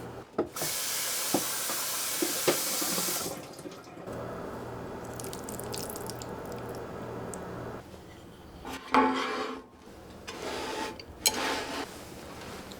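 Kitchen tap running into a sink: a strong rush of water about half a second in, cut to a softer flow, then two short bursts near the end, with a few light clicks and knocks from handling in the sink.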